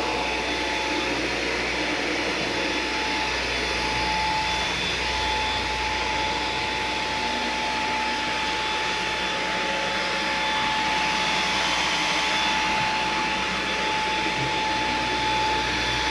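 Samsung VS20T7532T1 cordless stick vacuum running steadily, a smooth rush of airflow with a constant high motor whine, as it picks up debris from a tiled floor.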